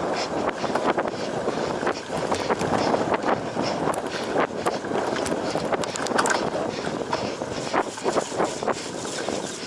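Cyclocross bike ridden hard over rough ground: tyres rumbling and the bike rattling and clattering with many small knocks, with wind buffeting the microphone.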